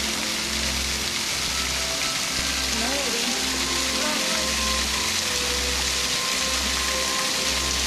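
Waterfall: the steady hiss and splash of falling water.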